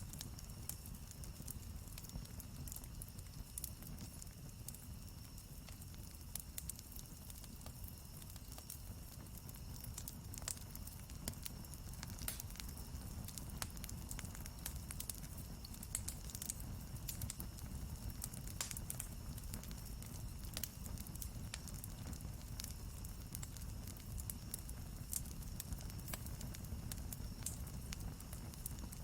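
Campfire of burning wood crackling, with frequent sharp pops and snaps scattered irregularly over a steady low rumble.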